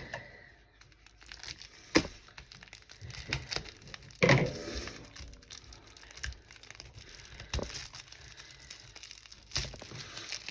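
Packaging of a diamond painting kit being handled and opened: crinkling plastic and paper with scattered sharp taps and knocks, the longest crinkle about four seconds in.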